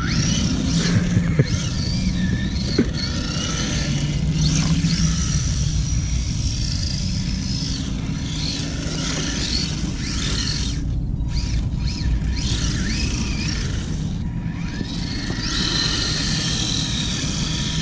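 Redcat Thunder Drift electric RC drift car running: a high motor whine that rises and falls again and again with the throttle, over a steady low rumble.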